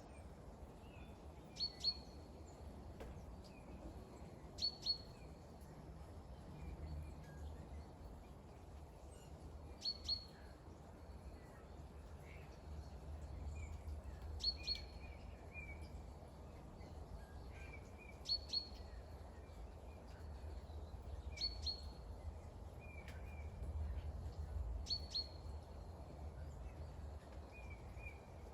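A small bird repeating a short, sharp, high call, mostly doubled, every two to three seconds, with softer chirps between, over a steady low background hiss and rumble.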